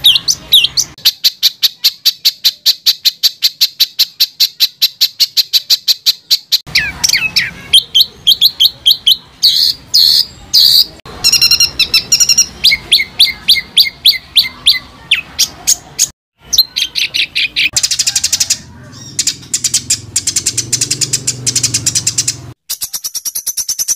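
Songbird song used as training material for competition birds: long runs of fast, evenly repeated sharp chirps at a high pitch, in the dense, harsh rapid-fire style. The phrases change abruptly a couple of times, with brief breaks.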